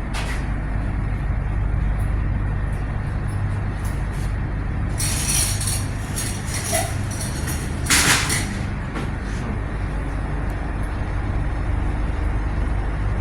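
Steady low hum of large commercial-kitchen machinery and ventilation. Short hissing or clattering bursts come about five and eight seconds in.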